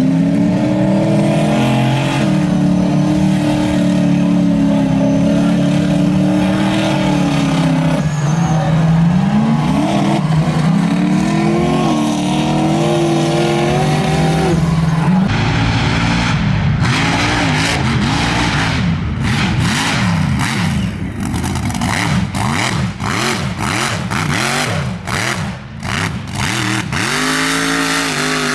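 Mud truck engine revving hard. For the first half the pitch holds fairly steady with slow rises and falls; about halfway through the revs swing up and down rapidly, with short noisy crackles among them.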